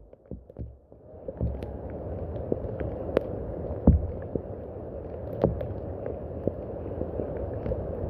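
Steady rain with scattered sharp drips and splashes of single drops. The rain drops away for about a second at the start, then comes back.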